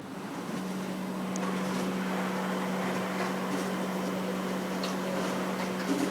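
Korean elevator moving truck's ladder lift running: a steady mechanical hum with one steady low tone, which grows stronger about half a second in.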